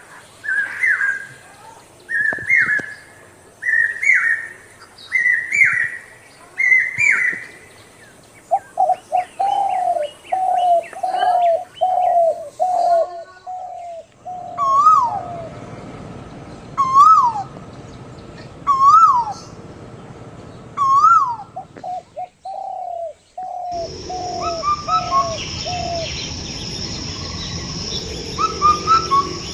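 Wild birds calling in a morning chorus: first a short call repeated about once a second, then a run of quick lower calls, then calls spaced about two seconds apart, each sliding up and down, over a high twittering. The sound changes abruptly twice, and for the last few seconds a steady high buzz runs under the calls.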